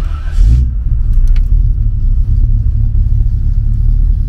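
Chevrolet Impala's engine starting up: a brief burst as it catches in the first half-second, then a steady low idle.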